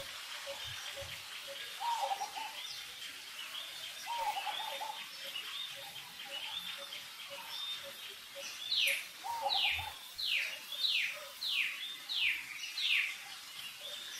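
Birds calling: steady chirping throughout, with a few lower wavering calls, then a run of seven quick falling whistles in the second half, about three every two seconds.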